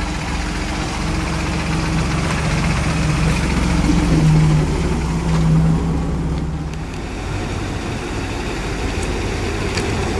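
Vintage MG saloon's engine running as the car drives slowly past, a steady hum that swells about four to six seconds in and dies away about seven seconds in. A low rumble from another car pulling up continues underneath.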